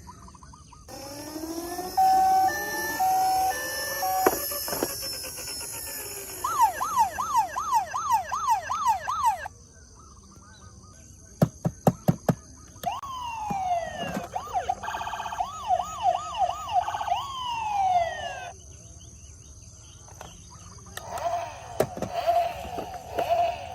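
Electronic toy emergency-vehicle sirens cycling through patterns: an alternating two-tone hi-lo, then a fast wail sweeping up and down about three times a second, a quick run of about five clicks, slower rising and falling wails, and a rapid warble near the end.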